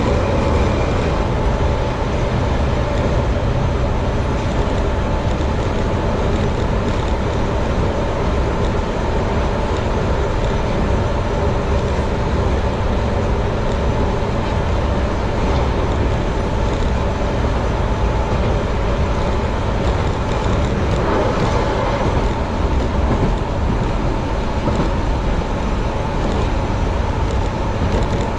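Keihan Ishiyama-Sakamoto Line electric train running along the line, heard from the driver's cab: a steady rumble of wheels on rail with a faint steady whine.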